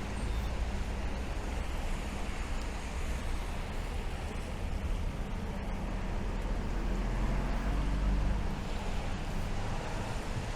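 Steady rain and city traffic on wet streets, with a low vehicle rumble that swells about two-thirds of the way through and then drops away.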